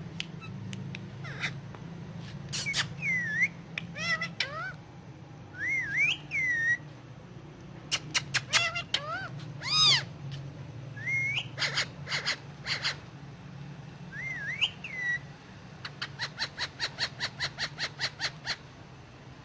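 Ringneck parakeet whistling and chirping: a string of short whistled calls that glide up and down, ending with a quick run of about five chirps a second. A steady low hum runs underneath.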